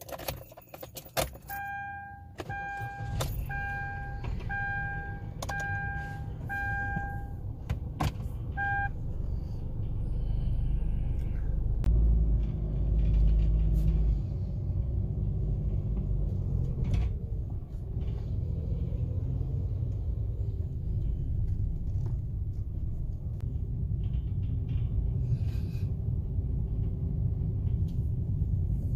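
Inside a Kia Ray light car: a few clicks and key rattles, then the car's warning chime beeping about once a second for several seconds. After that comes the steady low rumble of the engine and road noise as the car drives.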